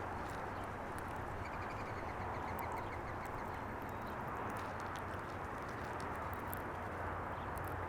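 A bird gives a quick run of rapidly repeated nasal call notes about a second and a half in. Under it runs a steady background rumble and hum, with scattered small sharp clicks.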